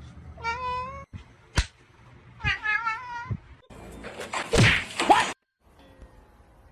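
A cat meowing twice, each a short wavering call, with a sharp smack between them. About four seconds in comes a louder, rough burst of noise lasting about a second and a half.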